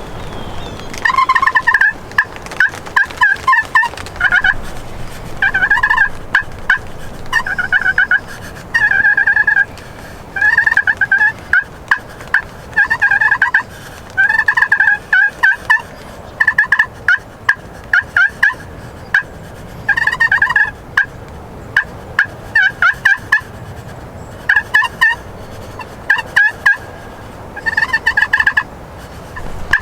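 Eastern wild turkey gobblers gobbling again and again, one short rattling gobble after another every second or two.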